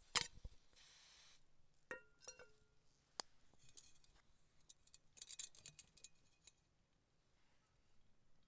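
Small hard objects being handled, clinking and knocking together: a sharp click just after the start, a clink that rings briefly about two seconds in, and light rustling and ticks around five seconds in.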